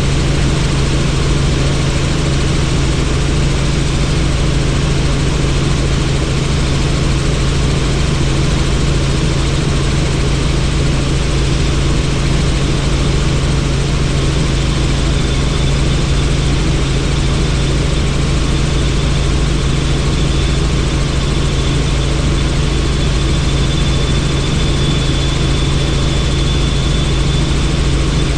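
Helicopter in steady flight heard from inside the open-door cabin: a constant low rotor and engine drone under a wide rush of wind and turbine noise. A faint high whine joins about halfway through.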